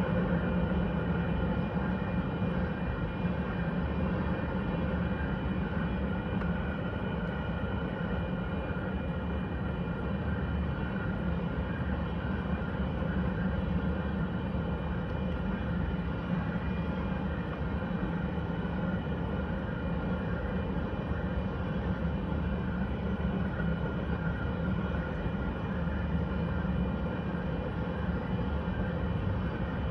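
A grain train rolling steadily past: a continuous rumble of the train in motion with a steady low hum and fainter higher tones over it.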